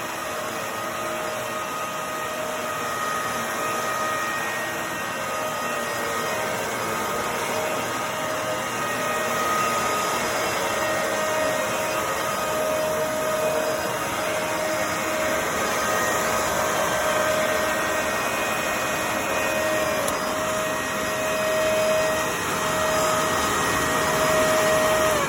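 Bissell MultiClean Allergen Pet upright vacuum running continuously while vacuuming: a loud, steady rush of air with a constant motor whine over it.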